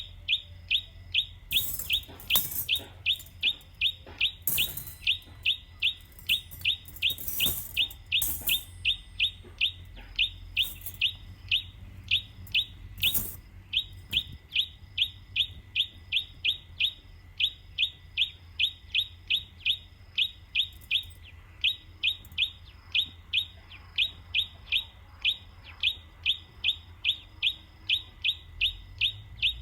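A bird chirping over and over in a steady, even rhythm of about two to three short high chirps a second, with a few brief louder scratchy sounds in the first third.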